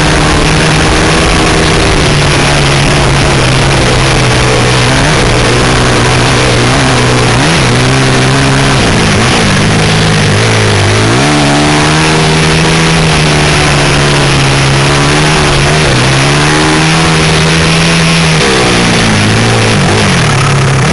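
A 160 cc pit bike's single-cylinder four-stroke engine heard loud from onboard while riding, the revs dropping and climbing again several times as the throttle is rolled off and opened back up.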